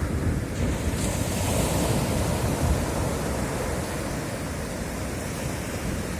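Sea waves breaking and washing up a beach in a steady rumbling surf, with wind buffeting the microphone.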